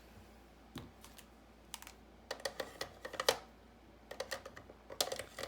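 Light plastic clicks and taps from alcohol markers being handled on a desk, with caps coming off or snapping on and markers set down, scattered irregularly.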